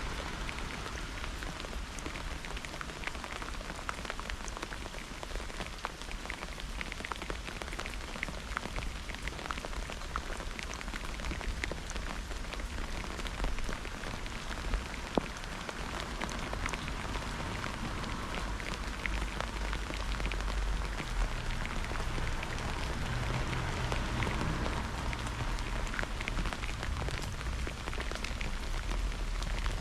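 Steady rain falling during a thunderstorm, with many individual drops ticking sharply close by over the hiss. A low rumble grows stronger in the last third.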